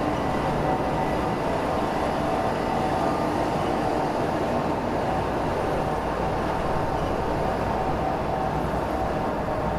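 Freight train rolling past: a steady rumble of wheels on rail with a few faint steady tones, unbroken throughout.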